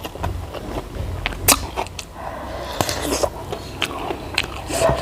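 A person chewing and biting food close to the microphone: irregular sharp crunchy clicks and mouth sounds, one louder crunch about a second and a half in.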